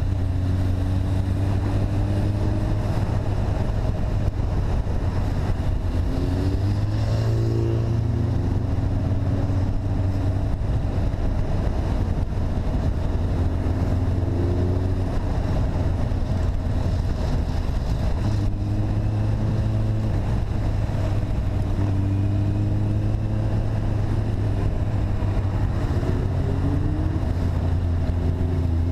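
A vehicle's engine running steadily under way, recorded on board. Its pitch rises several times as it accelerates.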